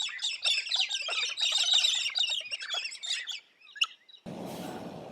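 Galahs calling together: a dense chatter of many short, high, overlapping calls that stops about three and a half seconds in, followed by one lone call. Near the end a steady hiss of outdoor background noise starts abruptly.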